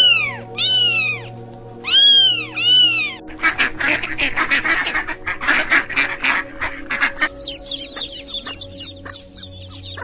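Kittens meowing, a few meows in the first three seconds, then a group of white ducks quacking rapidly, and near the end chickens making quick high chirps, all over background music.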